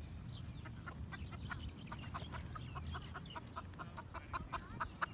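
Domestic fowl clucking: a quick run of short clucks, several a second, over a low rumble.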